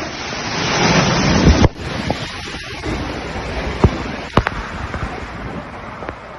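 Hurricane storm noise: a steady rush of wind and moving water, with an abrupt change in the sound about two seconds in and a few sharp knocks.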